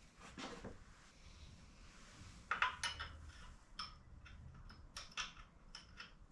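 Small metal tools and parts clinking and tapping against each other: a brief scrape about half a second in, then a quick run of sharp metallic clicks, some with a short ring.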